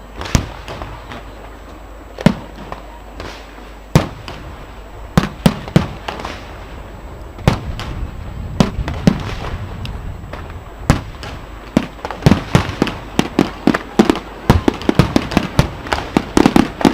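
Fireworks display: sharp, loud bangs of bursting shells, one every second or two at first, then coming thick and fast in rapid clusters over the last few seconds.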